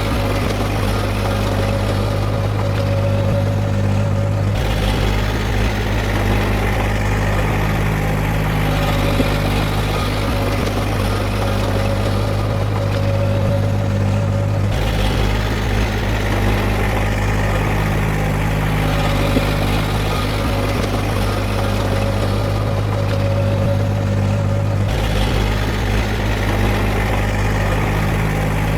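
Heavy diesel engine of earthmoving machinery running steadily, with an abrupt change in tone about every ten seconds.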